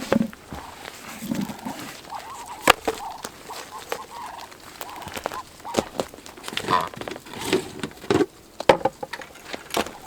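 Farm poultry, ducks and geese among them, calling around the yard: many short scattered calls and clucks, with a few sharp clicks.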